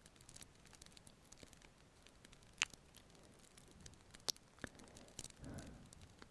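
Close-miked ASMR kissing: a few sharp, wet lip smacks and a soft breathy kiss near the end, over the faint steady crackle of a fireplace.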